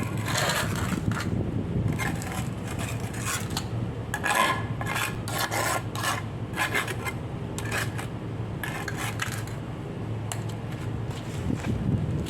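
Repeated rough scraping strokes, a hard tool or surface being rubbed back and forth in an irregular rhythm.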